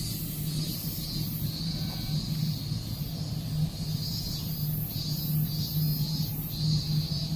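Steady low electric hum from a stopped Chōshi Electric Railway railcar standing at the platform, with a high-pitched chirring that swells and fades in uneven pulses over it.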